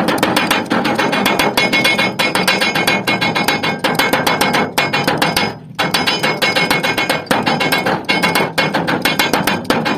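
A hammer beating sheet metal in quick, even blows, about four to five a second, with a short break about halfway. This is the metal being hammered into shape and its seams closed in making a pot.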